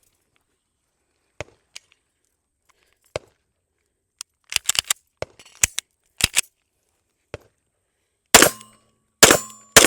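Light metallic clicks and clacks of a Staccato C2 9mm pistol being handled, then three loud pistol shots in quick succession near the end, with a ringing tone after them.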